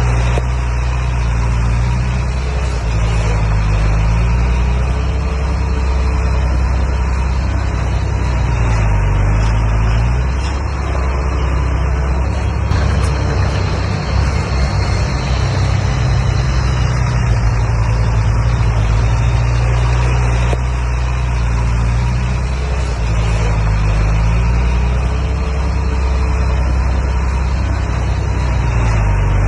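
Diesel engine of a D31P crawler bulldozer running steadily at working revs, its pitch dipping and recovering several times as it takes load pushing rock fill.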